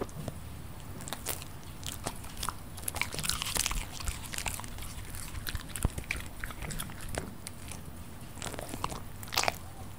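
Crunchy chewing: irregular crisp crunches and bites, with a few louder crunches about six seconds in and near the end.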